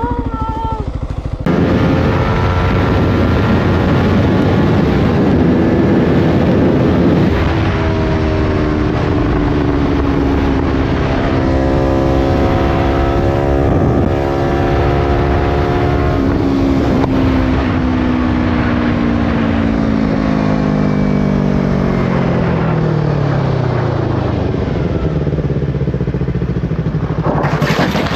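Motorcycle engine running under a constant rush of wind. Its pitch rises and falls as the rider works the throttle, then drops steadily over several seconds as the bike slows. A short burst of noise follows near the end.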